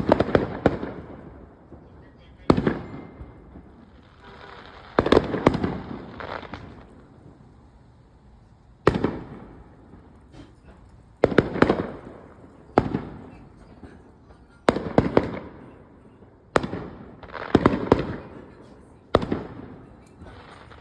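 Fireworks going off: about ten sharp bangs, roughly one every two seconds and now and then two or three in quick succession, each trailing off over about a second.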